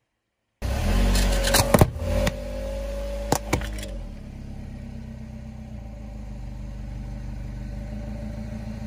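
Car engine running, cutting in suddenly about half a second in, with a few sharp cracks and snaps over the next three seconds; after that it settles to a steady, quieter running hum.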